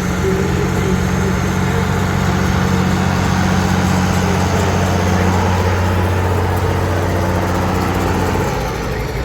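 A tractor engine idling steadily at an even, low pitch; its note breaks off about eight and a half seconds in.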